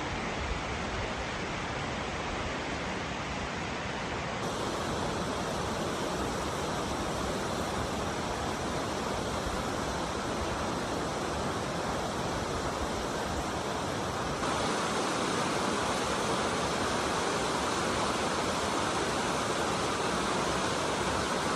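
Heavy rain pouring steadily, a dense even hiss. It shifts abruptly about four seconds in and again about fourteen seconds in, growing louder and brighter.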